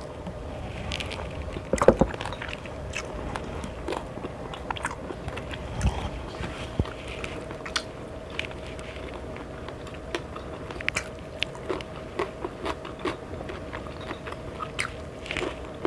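Close-up mukbang eating sounds: a person biting and chewing crunchy food, with many short crunches and clicks, over a faint steady hum.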